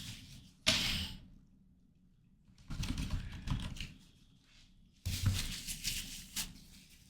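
Computer keyboard clacking in short runs: one sharp knock about a second in, then two bursts of rapid keystrokes, around three seconds in and again around five seconds in.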